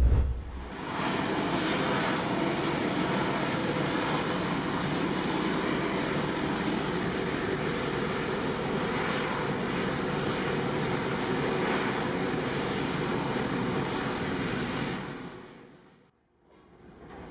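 Steady rushing of wind and water around a boat, fading out about fifteen seconds in.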